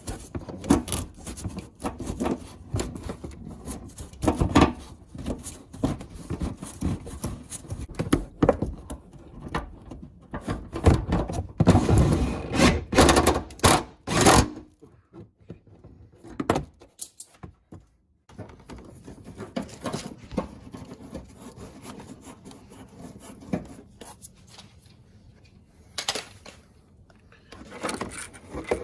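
Irregular knocks, clicks and rattles of car body parts and tools being handled during reassembly, dense and loud through the first half, then stopping abruptly and coming back as sparser knocks near the end.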